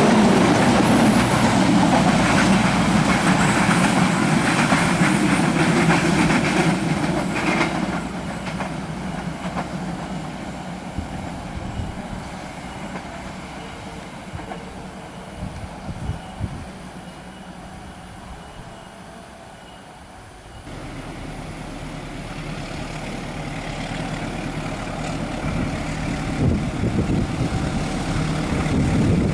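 Passenger train running past on the rails, loud for the first several seconds and then fading away, with some wheel clatter as it goes. About twenty seconds in, a steady low engine hum starts and grows louder toward the end.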